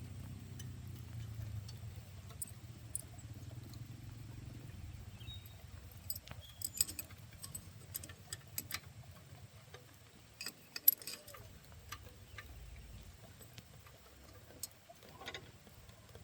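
Scattered light metallic clinks and taps, as of tools and small engine parts being handled, clustered in the middle with the sharpest one about eleven seconds in, over a low hum that fades.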